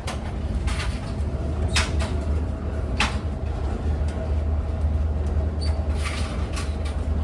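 Steady low rumble of a moving passenger train heard from inside the railcar, with a few sharp knocks and clatters from the car.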